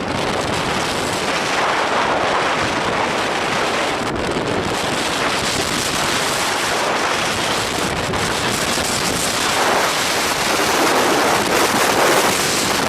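Very strong wind buffeting the microphone: a loud, continuous rushing noise with no let-up, swelling in gusts a couple of seconds in and again near the end.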